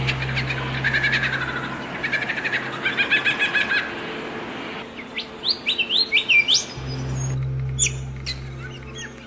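Several songbirds singing and chirping: a fast trill about three seconds in, then a run of quick rising chirps. A low steady hum lies under the birds for the first half and comes back near the end.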